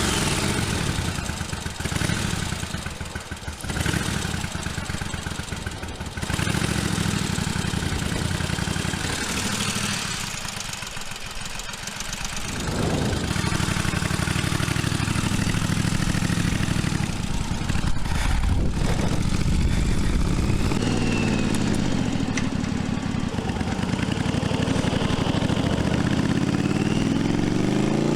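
1982 Yamaha Virago XV750's air-cooled V-twin running after a restart, idling with its idle raised, with short throttle blips. Near the end the revs climb steadily as the bike accelerates.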